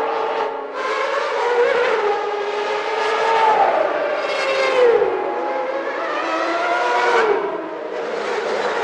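Early-1990s Formula One racing engines running at high revs. Their pitch drops sharply several times and climbs again in between, with more than one engine heard at once.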